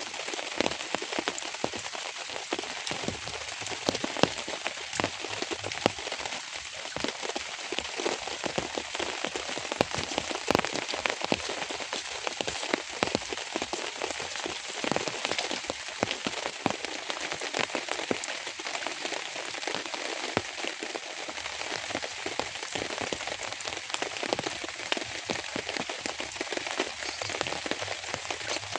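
Steady rain with many sharp individual drop hits on a surface.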